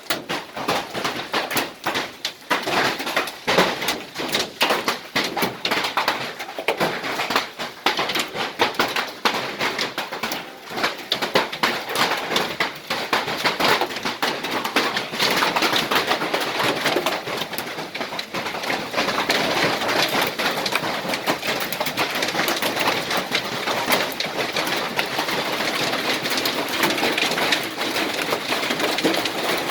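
Hailstones pelting down, a dense clatter of sharp ice impacts that thickens into a continuous loud din over the last third.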